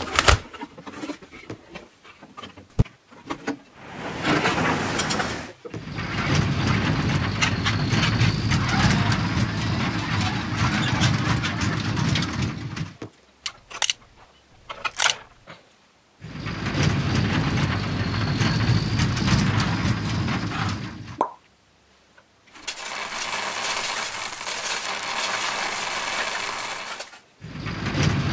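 A toy's small battery-powered motor running in four stretches of several seconds each, stopping in between, with a few sharp clicks near the start and around the middle.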